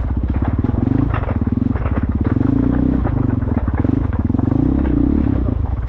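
Motorcycle engine running close by in a fast, even beat, its pitch rising and falling slightly around the middle.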